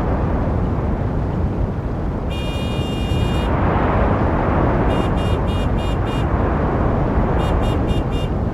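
Steady rumble of road traffic with a high-pitched vehicle horn: one long honk about two seconds in, then a quick run of five short toots, then four more near the end.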